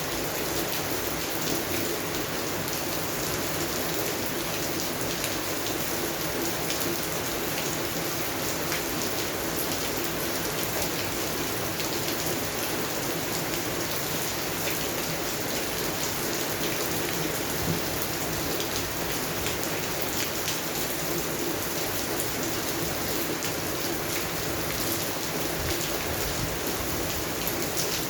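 Steady rain falling on garden plants, a dense, even patter of drops.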